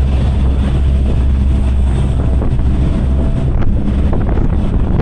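Passenger fast ferry's engines droning steadily under way, with wind buffeting the microphone and rushing water.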